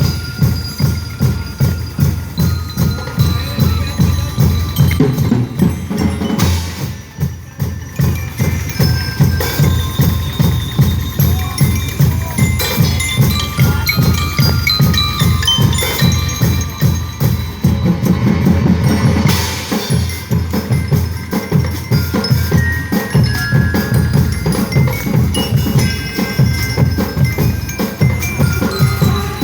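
A percussion band playing: drums keep a steady, fast beat while a mallet bell instrument plays a melody over them. The playing thins out briefly about seven seconds in.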